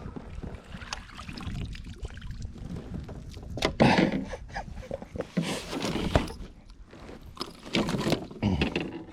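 Irregular knocks and splashing at a kayak as a hooked fish is fought and brought aboard, with a few louder surges of splashing.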